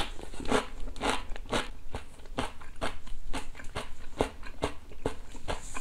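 Close-miked chewing of crisp smashed-cucumber pickle with the mouth closed: a steady crunch about two to three times a second.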